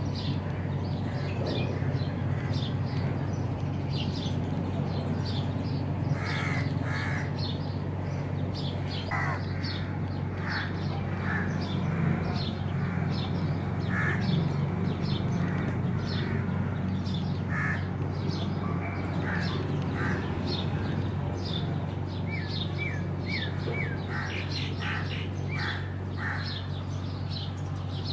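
Birds calling in short, repeated calls scattered through the whole stretch, over a steady low hum.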